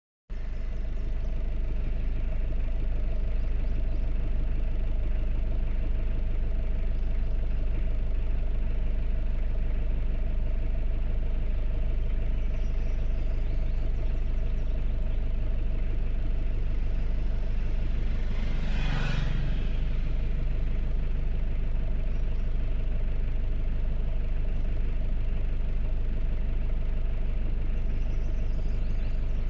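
Mazda dump truck engine running steadily, a constant low drone with a steady tone above it. A brief sharper noise cuts across it about two-thirds of the way through.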